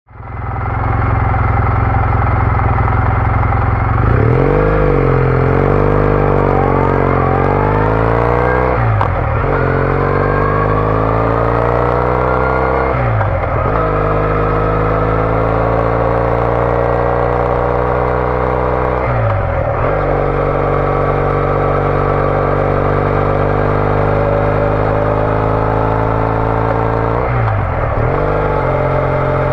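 Triumph Bonneville T214's parallel-twin engine through a TOGA aftermarket exhaust, running steadily at first, then pulling away and accelerating through the gears. The revs dip and climb again at four gear changes.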